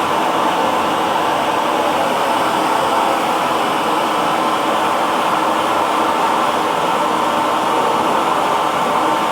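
Hair dryer running steadily, an even blowing noise with a faint motor hum and no change in level.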